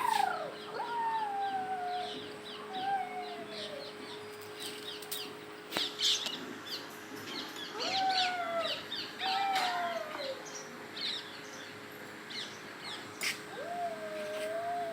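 Birds calling: about six drawn-out calls, each falling in pitch over roughly a second, among many quick high chirps, over a faint steady hum.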